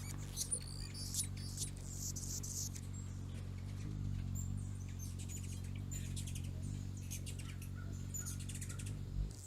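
Birds chirping: short, high tweets, with a few quick sweeping calls between about half a second and a second and a half in, then fainter scattered chirps, over a steady low hum.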